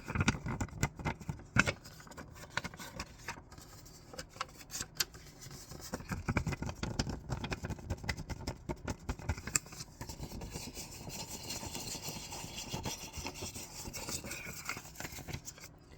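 Scissors cutting sketchbook paper, with many short snips and paper handling through the first part. From about ten seconds in there is a steadier rubbing hiss of paper.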